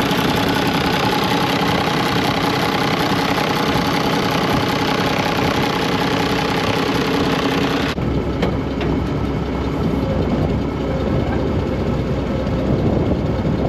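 International tractor engine running steadily. A little past halfway the sound abruptly turns duller and carries on.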